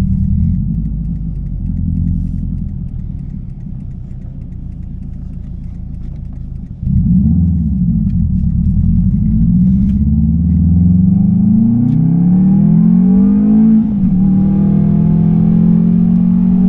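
2007 Subaru Legacy 2.5GT's turbocharged 2.5-litre flat-four, with a loud aftermarket 'fart can' exhaust, driving. Its revs settle low at first; about halfway through it turns suddenly louder and the engine note climbs steadily under acceleration, dips briefly at an upshift, then holds steady.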